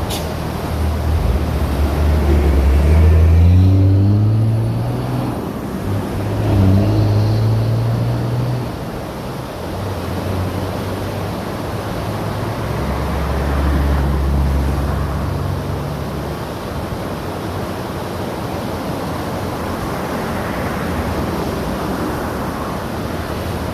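River water rushing steadily as the Río Otún begins to rise after rain. Motor vehicles pass over it, one climbing in pitch as it speeds up a few seconds in, another soon after, and a low engine hum passes around the middle.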